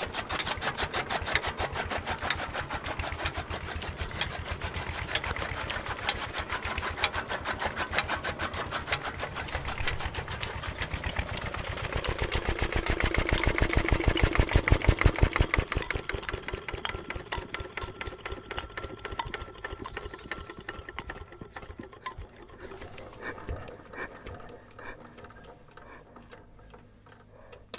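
Single-cylinder Petter diesel engine driving a chaff cutter for chopping fodder, running with a fast, even clatter. Over the second half the beats slow, spread out and fade as the machine runs down.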